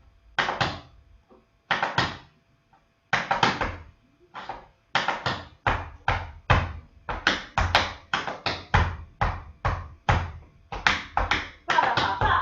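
Tap shoes striking a hard floor in a brush–heel–slap tap step. A few separate strikes come first, then a steady run of taps at about three a second that gets busier near the end.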